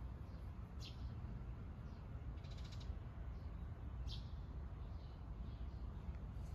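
Birds calling: a short high call about a second in, a quick rattling call around two and a half seconds in, and another short call at about four seconds, over a steady low background rumble.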